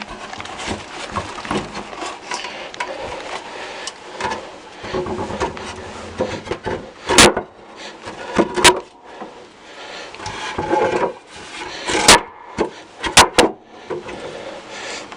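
Rubbing and scraping handling sounds, broken by about five sharp knocks, with no ringing after them.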